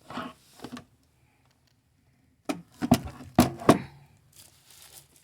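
Plastic wrapping rustling and crinkling as it is peeled off a plastic humidifier, with a run of sharp knocks and clatter about two and a half seconds in as the humidifier's plastic body is handled and comes apart into its two halves, then softer rustling.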